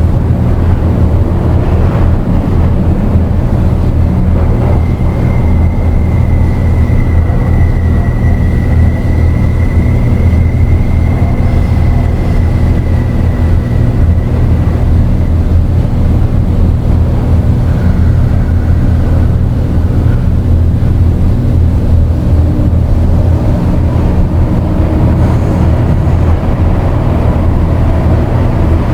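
Dark ambient drone: a loud, steady low rumbling drone under a wash of noise. A thin high tone comes in about five seconds in and fades out around halfway.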